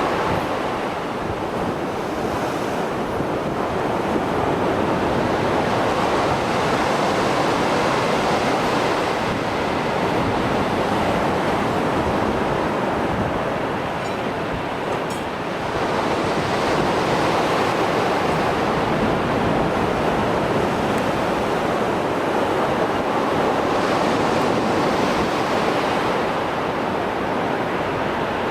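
Mediterranean Sea surf running high after a storm: a continuous rush of breaking waves that swells and eases in long surges, dipping briefly about every thirteen seconds.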